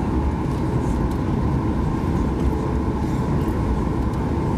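Steady low rumble of cabin noise inside a Boeing 737 MAX 8-200 taxiing after landing, its CFM LEAP-1B engines at idle.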